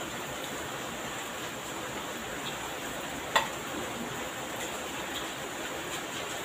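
Steady hiss of heavy rain. A metal spoon clinks sharply once against a ceramic plate about three and a half seconds in, with a few faint utensil clicks.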